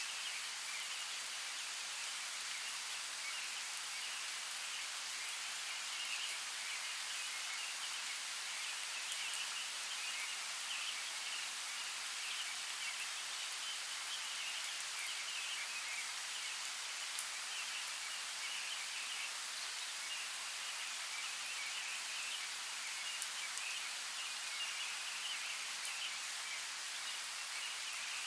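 Steady rain: an even hiss of falling drops, with a few sharper single drop ticks now and then.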